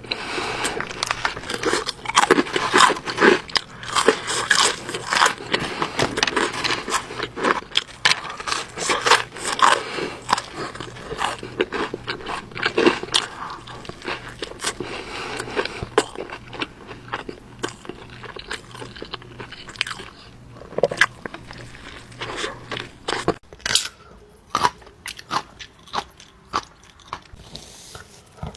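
Close-miked eating: a person biting into and chewing crunchy food, crisp crunches coming thick and fast for about the first half, then more sparsely.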